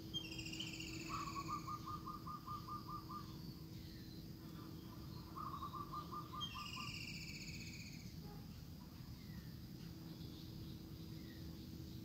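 Birds calling in two bouts about five seconds apart: each bout has high calls that fall slightly in pitch together with a quick run of about nine even notes, over a steady low hum.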